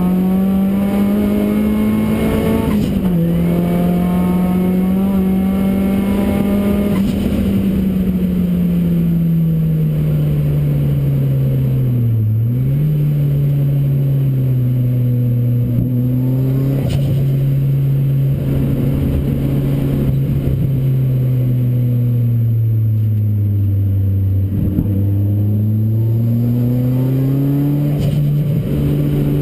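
Ford Racing Puma's modified Ford Focus RS engine running hard on track, its note rising and falling with the revs, with two short sharp drops before it climbs again.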